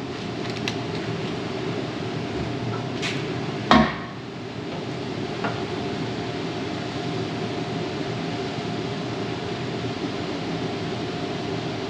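Two sharp knocks, about three and almost four seconds in, the second the louder, with a couple of faint ticks around them, over a steady hum with a faint constant tone.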